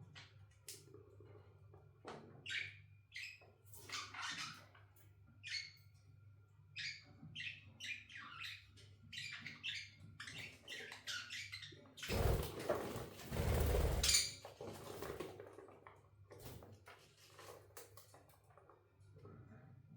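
Budgies chirping in many short, quick calls, with a loud rustling noise lasting about two seconds a little past the middle.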